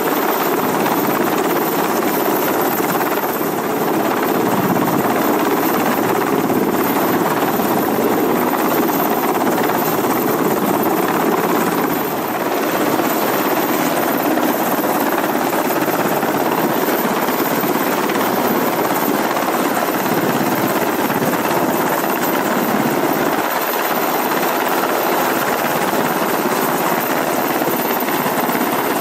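Sikorsky SH-60 Seahawk helicopter in flight, its rotors and turbine engines making a loud, steady noise throughout.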